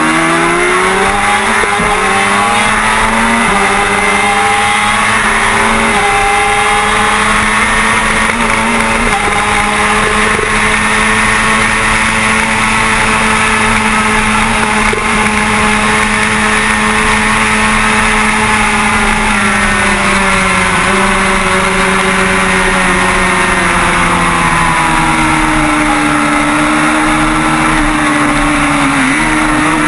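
Kawasaki ZX-6R 636 inline-four engine running hard at racing speed, with wind rush over the onboard microphone. Its note rises in the first few seconds, holds steady and high for about ten seconds, then drops and wavers in the last third.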